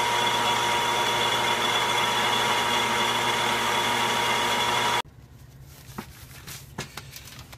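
Logan metal lathe running steadily under cut, a loud even machining noise with a steady whine, which cuts off abruptly about five seconds in. A few light knocks follow.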